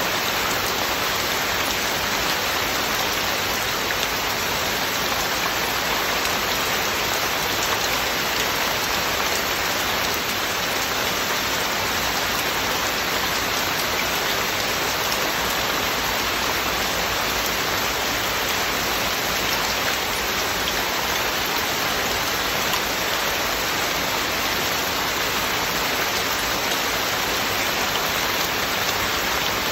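Heavy, steady rain pouring down and pattering on surfaces, an even hiss without thunder or music.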